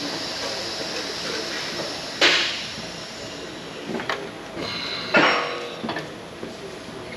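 Metal parts being handled over a steady hiss: a sharp clank about two seconds in, a few lighter knocks, and a ringing metallic clatter a little after five seconds, as the hiss dies away.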